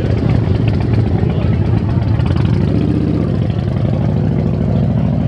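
Motorcycle engines running at low revs, a loud, steady low rumble.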